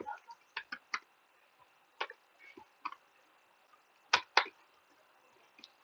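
Irregular keystroke clicks from a computer keyboard being typed on, spaced unevenly, with a louder pair of clicks about four seconds in.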